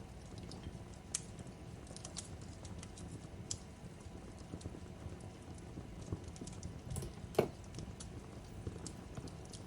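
Fireplace crackling: a steady low rush of burning wood with irregular sharp snaps and pops, the loudest pop about seven and a half seconds in.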